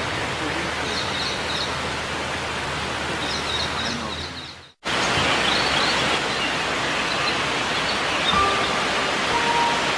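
Steady outdoor rushing noise, with faint high chirps of small birds over it. The noise fades away a little before halfway, breaks off for a moment, then cuts straight back in. No peacock call is heard.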